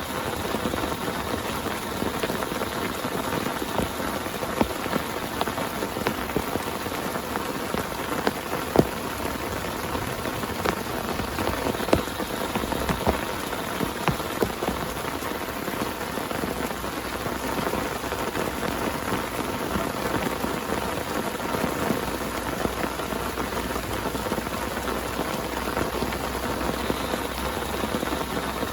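Heavy rain falling steadily, with scattered sharper drops striking close by; a few louder ones land about 4, 9 and 12 seconds in.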